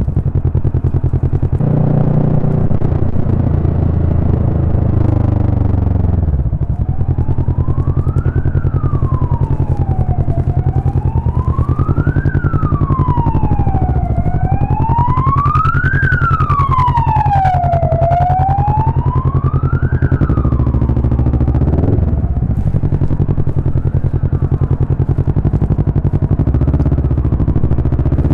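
Kawasaki Vulcan S parallel-twin engine running under the rider while an emergency-vehicle siren wails, its tone rising and falling slowly about every four seconds. The siren grows louder toward the middle and then fades away.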